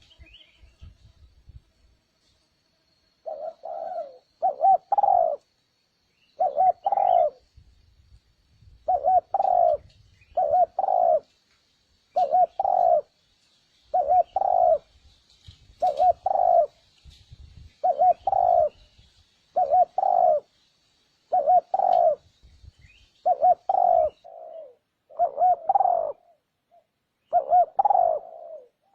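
Spotted dove cooing: short phrases of a few low coos, repeated about once every two seconds, beginning about three seconds in.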